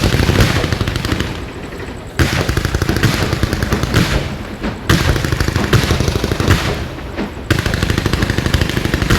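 Fireworks going off in rapid crackling salvos, strings of sharp pops like machine-gun fire. A fresh salvo bursts in about every two and a half seconds, each tailing off before the next.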